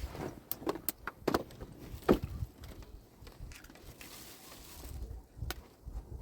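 Irregular knocks and clunks, five or so in quick succession over the first two seconds and one more near the end, over a low background rumble.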